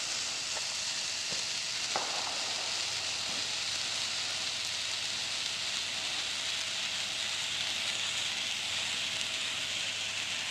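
Handheld Jumbo California Candle firework burning in the hand, hissing steadily as it sprays sparks.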